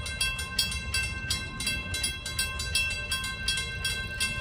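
Railroad crossing bell ringing rapidly and steadily, about four strikes a second, over a low rumble.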